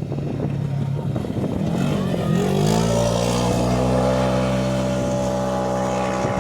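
A rally vehicle's engine accelerating. Its pitch rises over about a second, about two seconds in, then holds at a steady high run.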